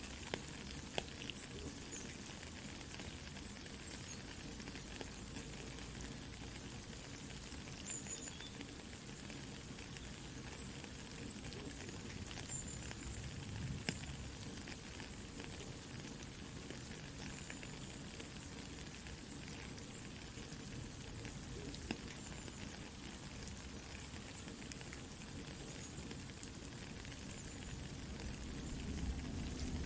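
Soft, steady rain hiss mixed with the scattered crackles and pops of a campfire burning.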